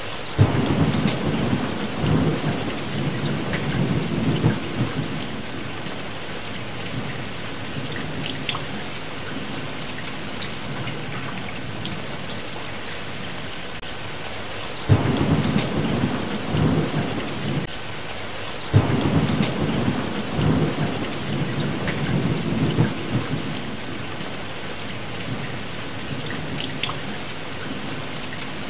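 Steady rain with three rolls of thunder, each starting suddenly: one just after the start that rumbles on for about five seconds, and two more back to back around the middle, the second rolling on for about four seconds.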